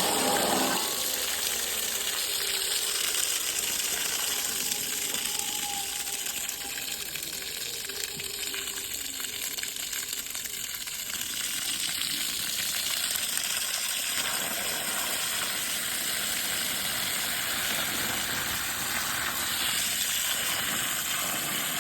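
Water spraying steadily onto fresh concrete or brickwork to cure it, a continuous even hiss.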